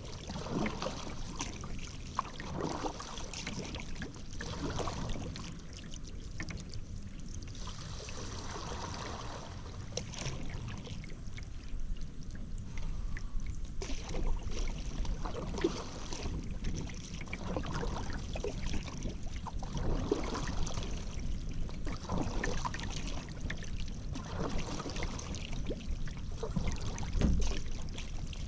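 Paddle strokes dipping and pulling through river water, a splash and trickle of drips coming back roughly every two seconds, with a couple of short lulls.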